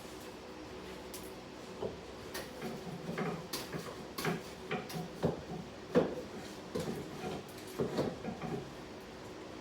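Irregular knocks, clicks and light clatter of household objects being handled, moved and set down, with the sharpest knock about six seconds in, over a faint steady hum.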